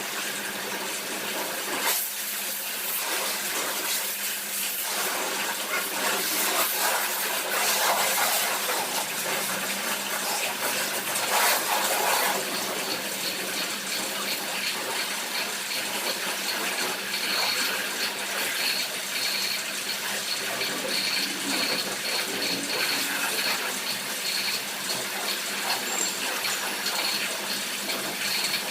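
Water spraying hard and steadily from a car-wash pressure washer, over a steady low hum from its pump motor.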